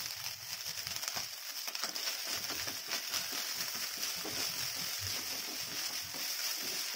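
Egg fried rice sizzling steadily in a metal kadai on high flame, with a wooden spatula scraping and tossing it against the pan.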